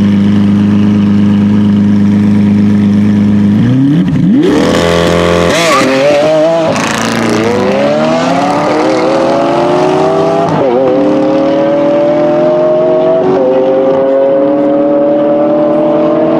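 Sports car engine held at steady high revs, then launched hard a little under four seconds in with a loud rush of noise. It accelerates away through the gears, its pitch climbing and dipping back at each upshift.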